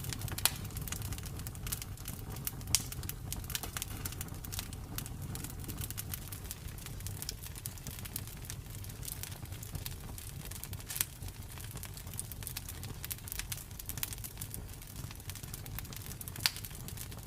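Campfire burning with continuous crackling and snapping over a steady low rumble, with a few louder pops: about half a second in, near three seconds, around eleven seconds and near the end.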